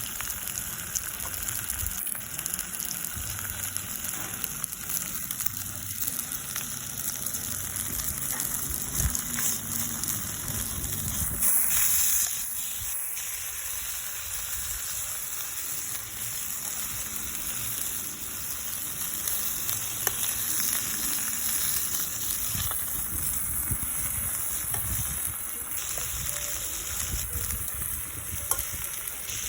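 Meat sizzling on a grill over a wood fire: a steady frying hiss with scattered sharp pops.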